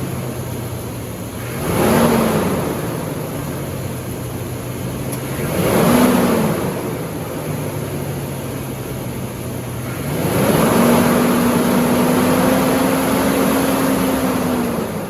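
2025 Chevrolet Express 3500 van's engine idling just after starting, blipped twice briefly, then held at raised revs for about five seconds before dropping back to idle near the end.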